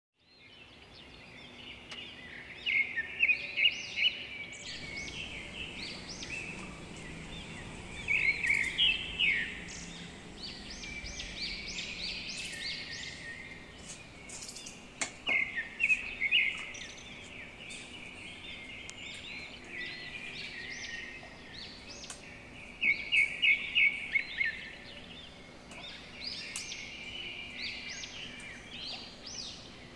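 Small birds chirping in quick runs of short, high notes that recur every few seconds, over a steady background hiss.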